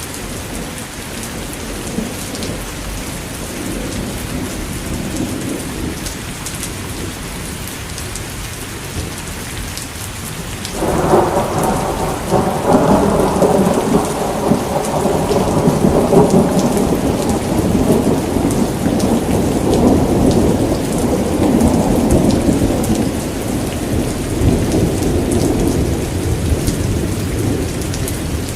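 Steady rain falling, with a roll of thunder that breaks in suddenly about eleven seconds in and keeps rumbling, slowly dying away over the rest.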